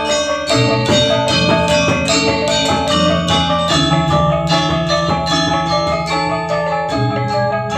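Balinese gamelan gong ensemble playing: bronze-keyed metallophones struck in rapid, busy strokes that ring on, over a sustained low tone.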